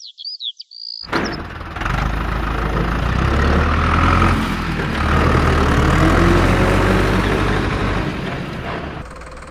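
A truck engine running with a low rumble, swelling about two seconds in and easing off near the end. Brief high whistling chirps come just before it starts.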